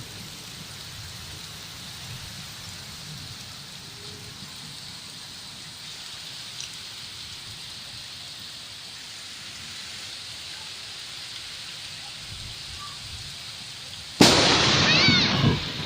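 Steady monsoon rain hissing, with a low rumble underneath. About 14 seconds in, the sound jumps suddenly to much louder, closer rain noise, with a high wavering call in it.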